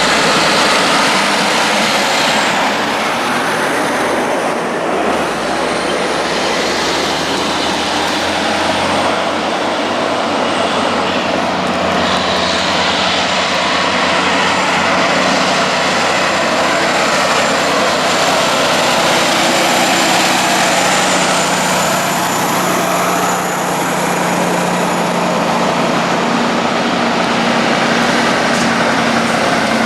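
Heavy truck traffic on a highway grade: loud, steady diesel engine and tyre noise, with an engine note that rises slightly near the end.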